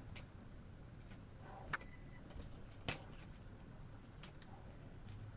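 Faint light clicks and taps of trading cards being handled, with two sharper ticks about two and three seconds in.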